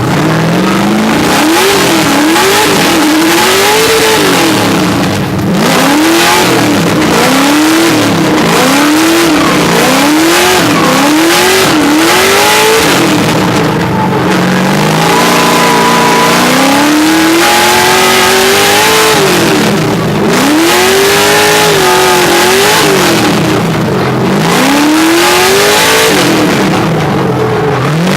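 Drift car engine revving hard. Its pitch climbs and drops back again and again, about once a second at first, then in longer pulls, over a hiss of tyre noise.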